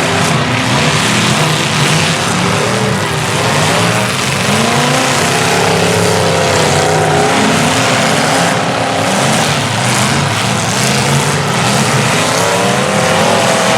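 Several large truck engines running and revving together, their pitches repeatedly rising and falling over one another, over a steady wash of noise.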